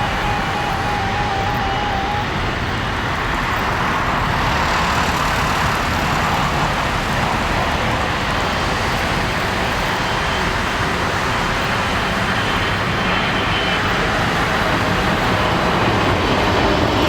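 Airliner jet engines making a steady rushing noise that slowly grows louder.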